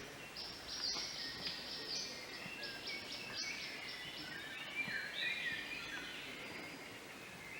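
Songbirds singing: rapid runs of short high chirps and trills, with more sliding, warbled notes in the second half, over a steady outdoor hiss.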